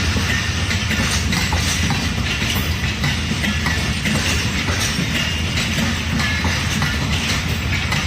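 Passenger train rolling past at close range: a steady, loud rumble of wheels on rails, with faint clicks and short high squeals now and then.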